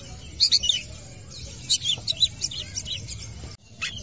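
Long-tailed shrike (cendet) singing in quick runs of sharp, high chirping notes, with a brief break near the end.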